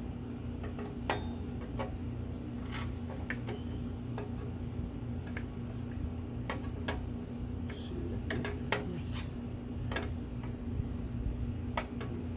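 Scattered metallic clicks, taps and clinks of tools and parts being handled, a dozen or so irregular knocks, over a steady low hum.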